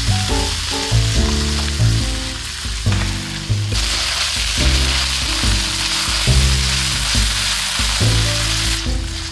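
Garlic and salted black beans sizzling in hot oil in a wok as a spatula stirs them, the sizzle growing louder from about four seconds in.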